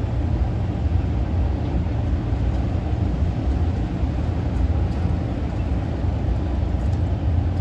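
Steady low rumble of a high-speed ferry's engines running in the harbour.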